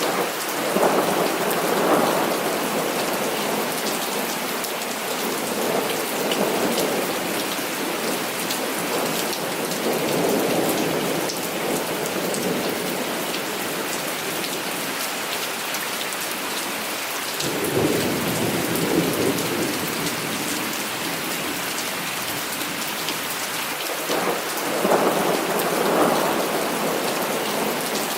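Heavy rain falling steadily, with rolls of thunder rumbling in several times: at the start, a few times through the middle, and strongest near the end.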